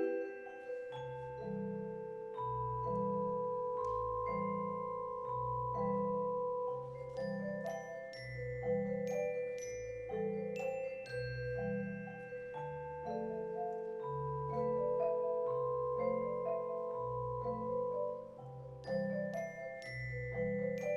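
Percussion ensemble playing a slow waltz on mallet instruments: long ringing held tones in the middle, a low bass note pattern pulsing about once every second and a quarter, and short bright high strikes over the top.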